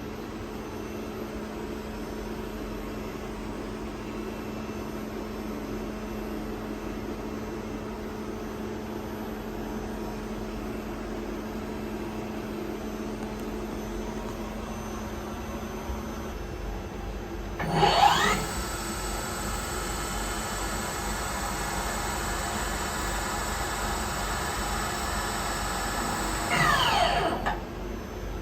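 OKK VM-4III vertical machining center: a steady hum from the powered-up machine. About 18 s in, the spindle spins up with a quickly rising whine and runs at a steady high whine for about eight seconds. It then winds down with a falling whine near the end.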